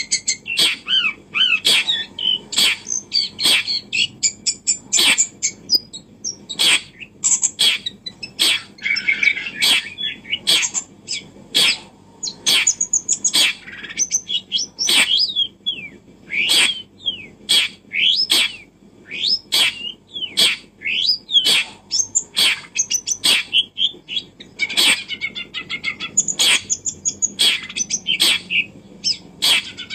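Birds chirping and twittering, with many short calls and trills and frequent sharp clicks or taps in between.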